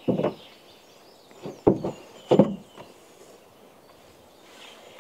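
A few short, dull thumps and knocks: a small child climbing and jumping down from a car's open boot. Three of them are spaced over the first two and a half seconds.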